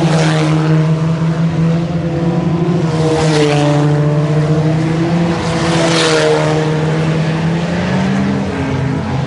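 IMCA Sport Compact race cars running at speed, a steady blend of four-cylinder engines under load. Twice, cars sweep past close by.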